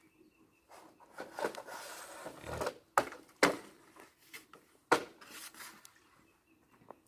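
Wood being handled: a stretch of rubbing and rustling, then a few sharp knocks about three and five seconds in.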